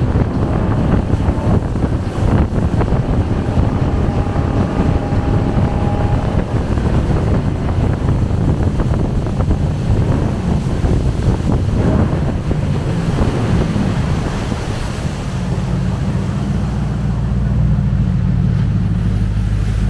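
Jet boat running at speed up a river, its engine and rushing water mixed with heavy wind buffeting the microphone. About three-quarters of the way through the sound settles into a steadier, lower engine note as the boat slows.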